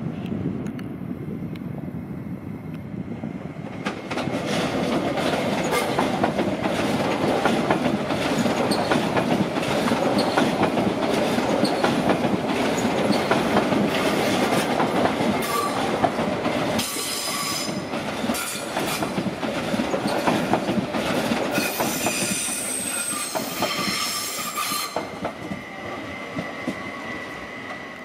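BLS MIKA (Stadler FLIRT RABe 528) electric multiple unit running slowly through the station's points, its wheels rumbling and clicking over the rail joints and switches. It grows louder after a few seconds. In the second half, high-pitched flange squeal sounds on and off as the wheels take the curves, and the train then fades away.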